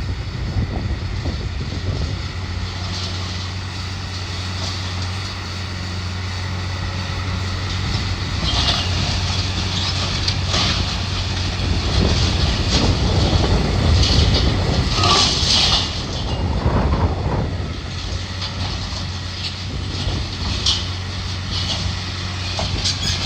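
Diesel demolition machine running steadily under load, with scraping and clattering of debris being pulled from a building from about 8 seconds in until about 17 seconds, and a couple of sharp knocks near the end.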